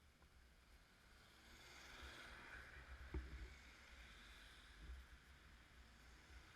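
Near silence: a faint hiss that swells and fades, with a single click about three seconds in.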